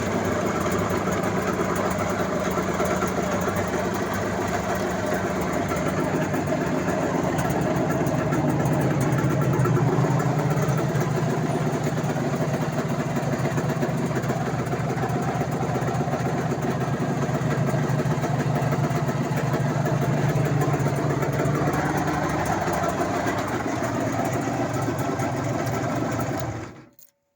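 IZh Jupiter two-stroke twin-cylinder motorcycle engine, freshly overhauled, idling steadily and evenly, running smoothly like clockwork. Its note gets a little fuller about a quarter of the way in, and the sound cuts off abruptly about a second before the end.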